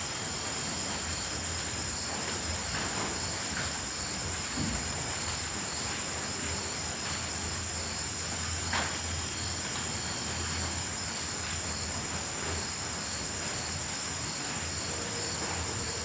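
Night insects: crickets trilling steadily in a continuous high-pitched drone, with another insect chirping in an even, repeating beat, over a steady hiss.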